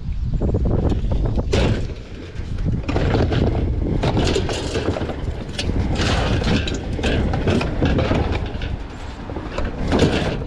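Rummaging through a dumpster: irregular knocks and clatter of items being handled and shifted, over a steady low rumble.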